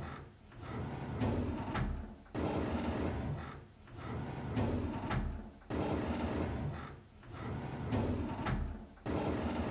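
A drawer sliding open, over and over, about three times: each pass starts abruptly with a rumbling slide that swells and ends in a short click.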